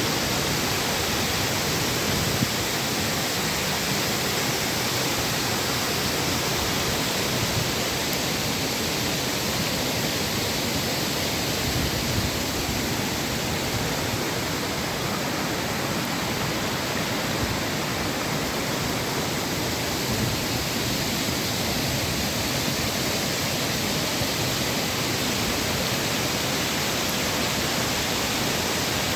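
Waterfall cascading, a steady loud rush of falling water.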